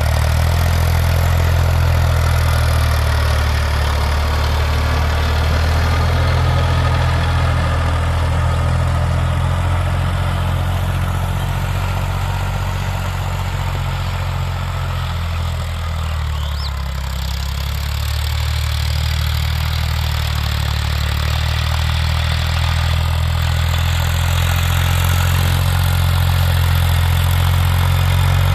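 Tractor diesel engine running steadily while ploughing dry ground, a low steady drone that eases a little about two-thirds of the way through.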